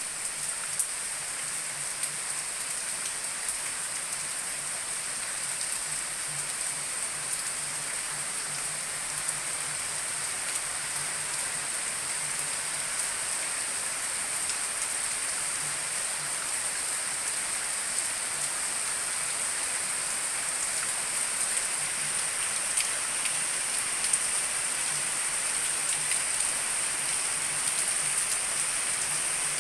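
Heavy rain falling: a steady hiss with many small drop ticks scattered through it, growing slightly louder towards the end.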